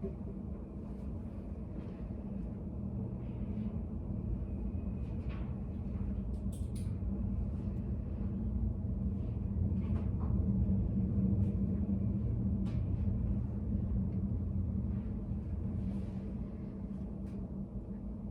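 Steady low rumble of study-cafe room ambience, swelling a little midway, with a few faint scattered taps and clicks.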